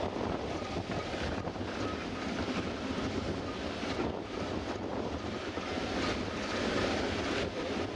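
Steady running noise of a moving open ballast wagon on the rails, with wind buffeting the microphone and the diesel shunting locomotive's engine humming low underneath.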